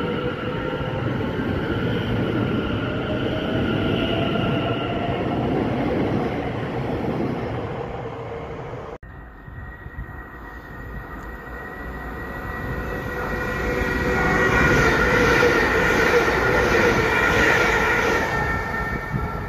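Electric multiple-unit train running alongside the platform, its rumble topped by a traction-motor whine that rises slowly in pitch. After a sudden cut about halfway through, another electric train approaches, its rumble and whine growing loud near the end.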